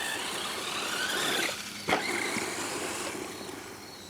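Redcat Volcano EPX electric RC truck driving on its brushed motor, the motor's whine rising and falling with the throttle over the noise of the tyres. There is a single sharp click about two seconds in.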